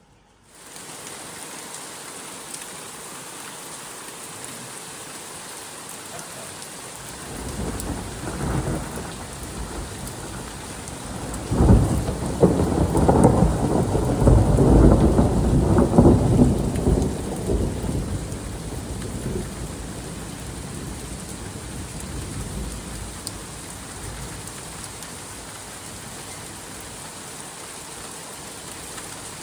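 Steady rain falling, with a long roll of thunder that builds about seven seconds in, rumbles loudest for several seconds, then dies away.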